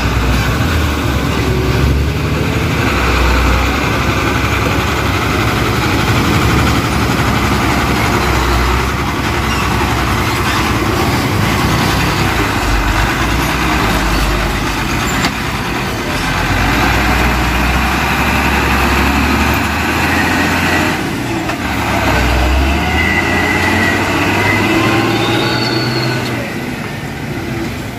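A train passing over a level crossing, its wheels rumbling and rattling steadily on the rails, with brief dips in the noise about halfway through and again later.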